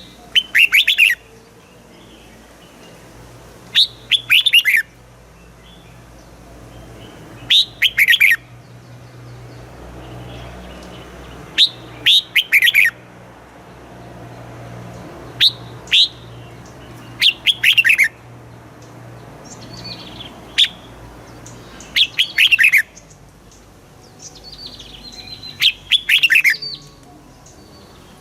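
Red-whiskered bulbul singing: short, loud phrases of quick falling whistled notes, repeated every few seconds, about eight times. A faint low hum runs underneath.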